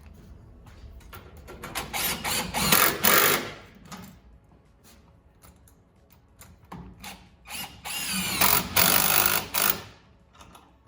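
Cordless impact driver run in two bursts, each a few seconds long, driving hose clamps tight on the charge-tube couplers; its pitch rises in the second burst.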